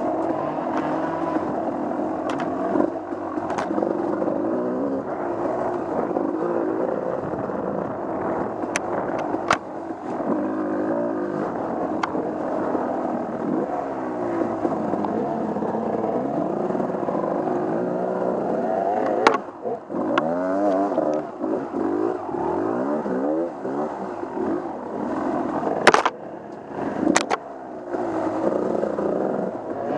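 Off-road vehicle engine running on a trail, its pitch rising and falling over and over as the throttle is worked. Several sharp knocks and clatters come through, the loudest about two-thirds of the way in and twice near the end.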